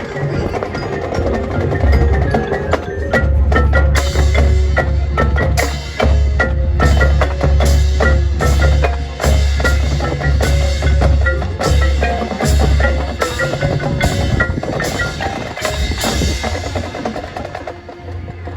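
Marching band playing: sharp percussion hits and mallet keyboard notes over a deep, sustained bass line.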